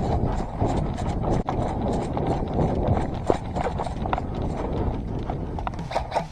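Running footsteps: a quick, irregular patter of thuds over a dense rustling rumble.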